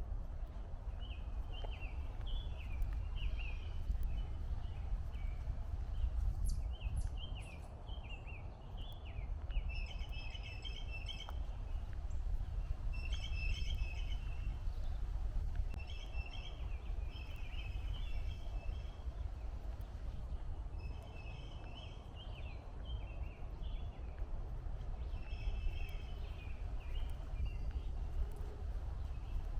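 Songbirds calling in repeated bouts of quick, high chattering notes, over a steady low rumble.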